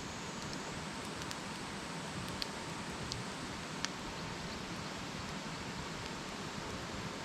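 Wood campfire burning: a steady hiss with a handful of sharp crackles and pops in the first four seconds.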